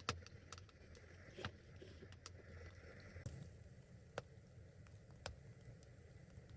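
Faint, scattered sharp clicks or crackles, about six of them, the loudest right at the start, over a low steady hum.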